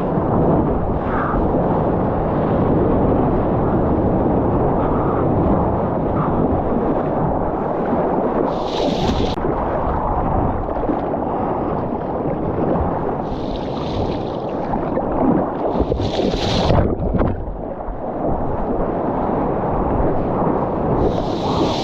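Wind and water rushing over a surfing camera's microphone, a steady rough buffeting. Several short, sharper hisses stand out, about nine, fourteen and sixteen seconds in and again near the end.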